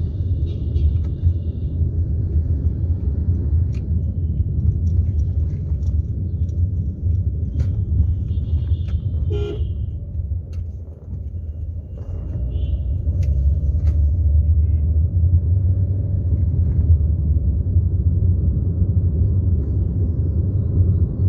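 Road traffic: a steady low vehicle rumble, broken by short vehicle horn toots near the start, about eight seconds in and again around twelve seconds in.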